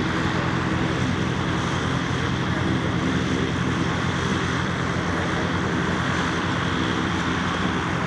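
Light aircraft's piston engine and propeller running steadily at an even, unchanging pitch.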